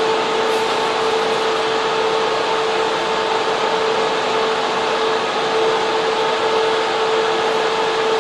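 Server room cooling fans and air handling running steadily: a loud, even rush of air with a constant whine running through it.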